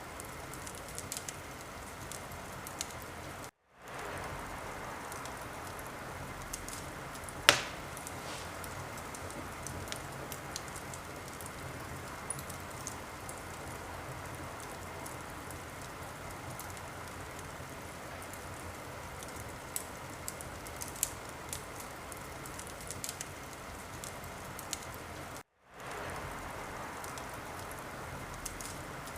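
Wood fire in a fireplace crackling: a steady hiss with scattered snaps and pops, one loud pop about seven seconds in. The sound cuts out briefly twice and fades back in.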